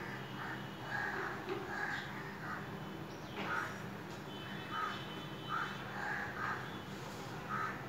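Birds calling: a string of short calls, irregularly spaced, about a dozen over several seconds, over a steady low hum.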